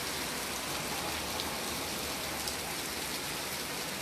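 Rain falling steadily, an even hiss with a few scattered drop ticks.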